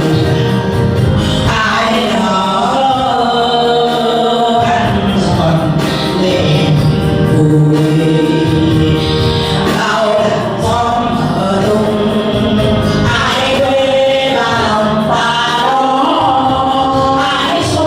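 A Vietnamese song: voices singing a melody over instrumental accompaniment.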